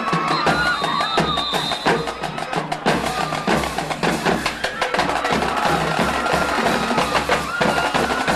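A school band playing: rapid drum strokes under held notes from the horns.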